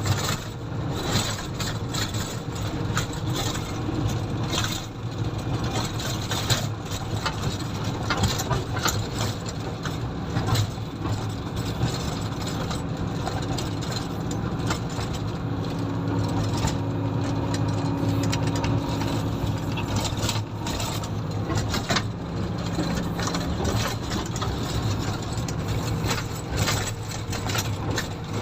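Komatsu motor grader's diesel engine running steadily, with frequent knocks and rattles from the machine; a steady higher tone joins in for several seconds past the middle.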